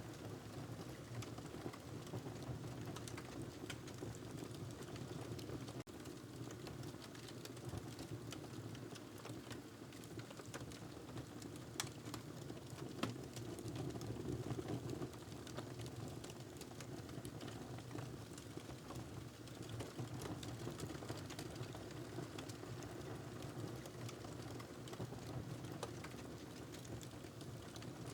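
Wood fire crackling in a fireplace: a steady low rush of flames with scattered small pops, two sharper ones near the middle.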